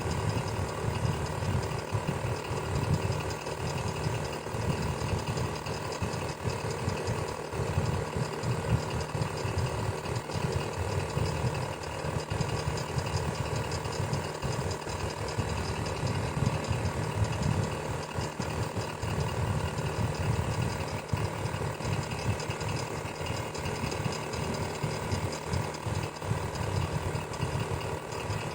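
Electric fan running steadily, a continuous low whir with a fast rattling flutter and a faint hum.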